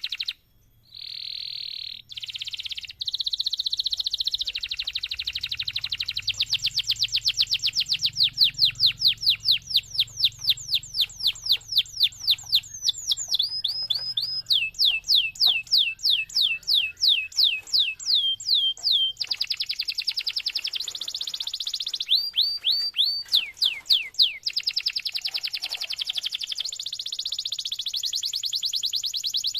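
Domestic canary singing a long, continuous song of rapid trills. Each run of repeated notes gives way to a new note type every few seconds, with one brief break about half a second in.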